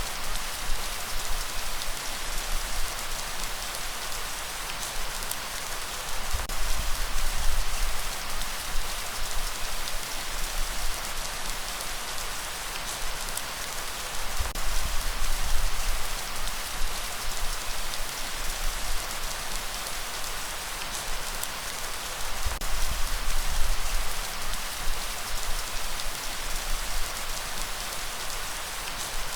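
Steady, dense rainfall hissing on surfaces. A low rumble swells and fades every several seconds beneath it.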